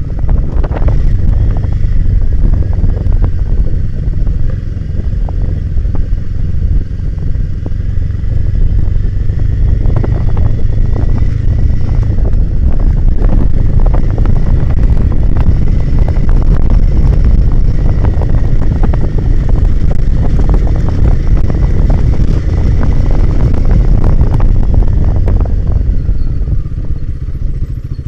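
Royal Enfield Himalayan 450's single-cylinder engine running as the motorcycle rides a rough dirt trail, with wind buffeting the microphone and scattered knocks and clatter from the bike over the ground. About 26 seconds in the engine note falls and the sound gets quieter.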